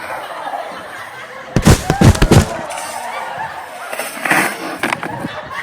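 A quick run of four or five loud bangs about a second and a half in, with a smaller burst near four seconds, over steady background noise.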